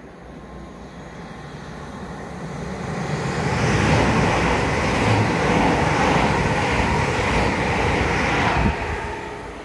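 Electric multiple-unit passenger train passing close by, wheels running on the rails: the noise builds over the first few seconds, holds loud and steady while the coaches go by, then drops away near the end as the last coach passes.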